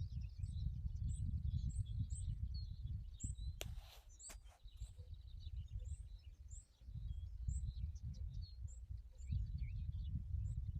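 Many small birds chirping and twittering in quick, high notes, over a low rumbling noise. A brief hiss with a couple of clicks comes about four seconds in.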